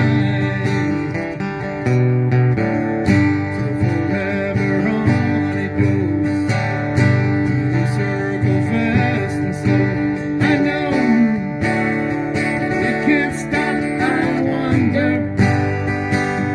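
Band music: strummed acoustic guitar with a melodic lead line that bends in pitch, over a steady bass.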